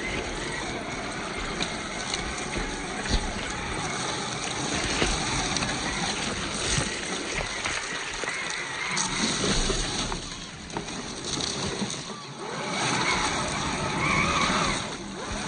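Water sloshing and splashing.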